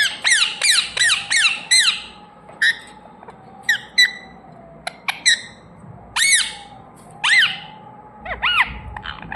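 Pet parrot calling with sharp, arching chirps: a quick run of about five a second for the first two seconds, then single chirps roughly once a second.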